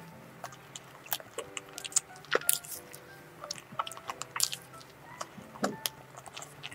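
Close-up chewing of a soft cream-filled donut: many short, wet mouth clicks and smacks, over soft background music.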